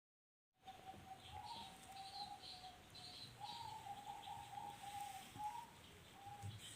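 Faint bird calls, starting about half a second in: short high chirps repeating over a steady, wavering note.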